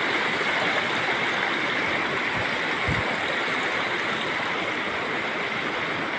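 Spring water running steadily, an even rushing flow.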